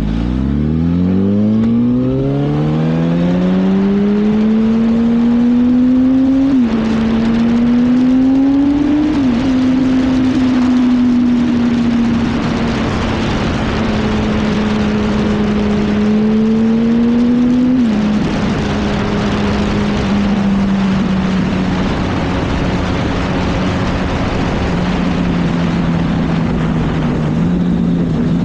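Yamaha R1 inline-four sport motorcycle accelerating hard from low revs, the engine note climbing and dropping sharply at three upshifts about six and a half, nine and eighteen seconds in, then settling to a steady high-speed cruise. Heavy wind rush on the helmet microphone builds as speed rises.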